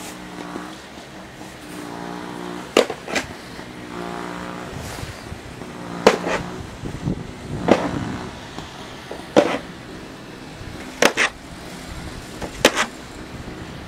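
Snow shovel scraping and knocking on the pavement, clearing heavy, compacted snow. There are sharp strikes every second or two, some in quick pairs. Short stretches of a steady droning hum come and go between them.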